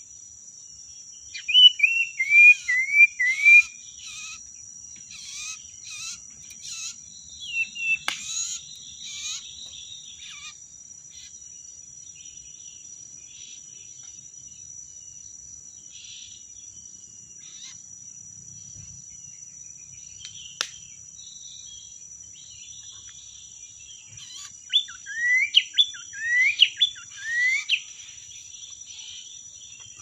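Common iora calling: a quick run of about five short downslurred notes near the start, scattered notes after, and another run of about five whistled notes that sweep up and fall back near the end. A steady high insect drone runs underneath.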